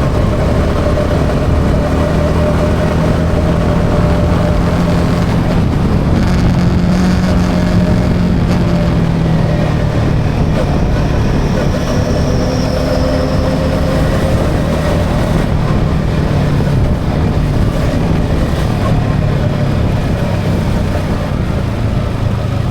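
Yamaha XSR 155's single-cylinder engine running steadily under way, its pitch drifting slowly up and down, over wind and road noise.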